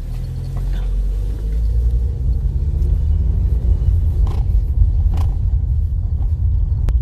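Car pulling away and driving on: a low engine and road rumble that builds over the first couple of seconds, then holds steady, with a single sharp click near the end.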